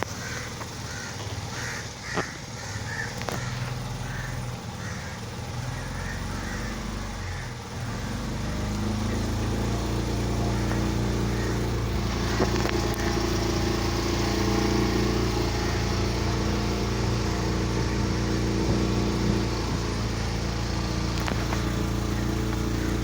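A crow cawing repeatedly over the low hum of a boat engine. About eight seconds in, the engine picks up and runs louder and steadily.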